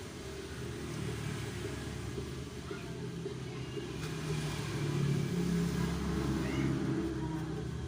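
A low engine rumble from a motor vehicle, growing louder through the second half.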